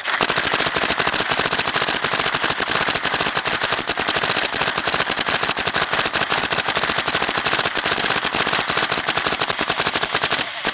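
Electronic paintball marker firing on uncapped full-auto: a rapid, unbroken stream of shots for about ten seconds that stops abruptly.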